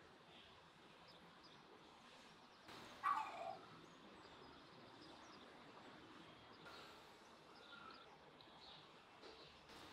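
Quiet outdoor ambience with faint, scattered bird chirps. About three seconds in, a single louder bird call of about half a second falls in pitch.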